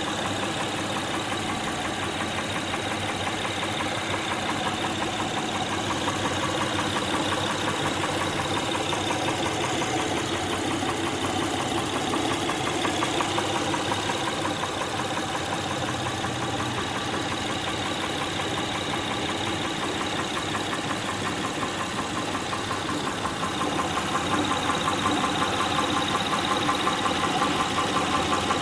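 A 2006 Honda Pilot's 3.5 L V6 is running steadily with a rhythmic knock from the engine. The knock comes from a defective camshaft lobe. The engine gets a little louder near the end.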